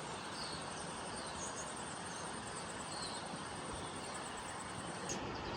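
Insects chirring steadily in a high, finely pulsing tone over an even background hiss, with a few faint short chirps; the sound changes abruptly about five seconds in.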